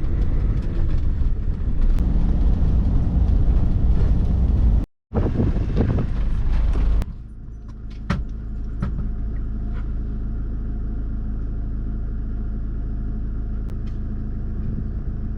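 Campervan on the move: loud road and wind noise, broken by a brief cut about five seconds in. From about seven seconds in, a quieter steady engine hum with a few light knocks and rattles.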